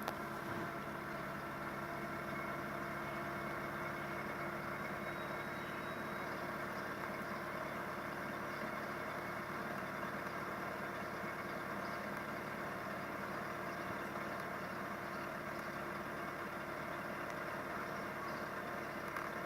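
Volkswagen Passat 1.6 engine idling steadily.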